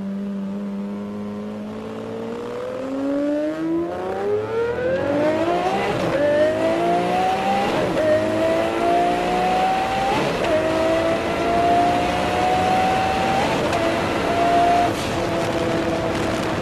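Twin-turbocharged Lamborghini Murcielago LP670SV V12 under full-throttle acceleration. The engine note climbs steadily through each gear and dips briefly at five upshifts.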